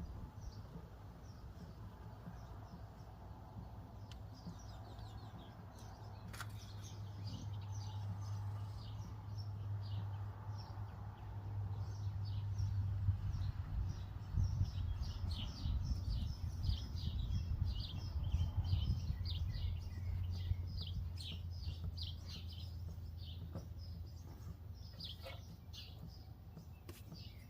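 Birds chirping and singing in quick, repeated short notes, busiest in the second half, over a steady low hum.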